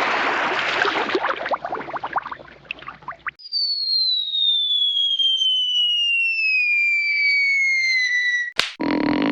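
Cartoon sound effects in sequence: an explosion's noise dying away into scattered crackles, then a long whistle falling slowly in pitch for about five seconds, cut off by a sharp snap, after which another effect begins.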